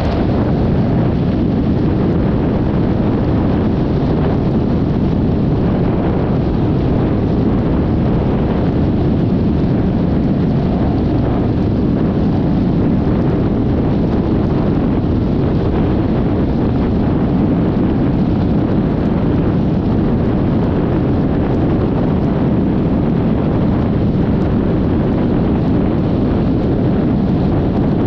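Steady wind rush on the camera microphone mixed with the running and road noise of a Yamaha XMAX 300 scooter being ridden at an even speed.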